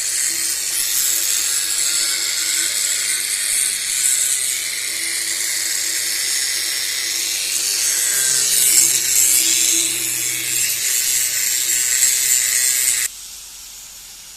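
A grinding wheel grinding metal: a steady high hiss over a faint humming tone, which stops abruptly about thirteen seconds in.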